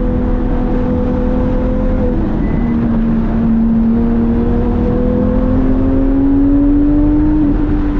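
Porsche 997 GT3's flat-six engine running hard at speed on track. Its pitch dips about two seconds in, climbs slowly for several seconds and eases down near the end.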